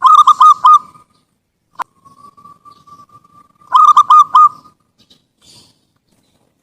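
Zebra dove (perkutut) cooing in two loud phrases of about four quick notes each, about three and a half seconds apart, with a faint held note between them. A single sharp click comes just under two seconds in.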